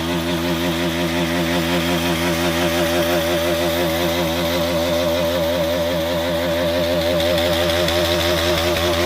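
Bajaj Pulsar NS200's single-cylinder engine idling steadily, its pitch wavering slightly.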